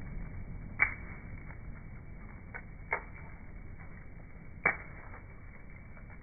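Bonfire crackling: three sharp pops from the burning fuel, about a second in, about three seconds in and near the end, with a few faint clicks between them over a low, steady rumble of the fire.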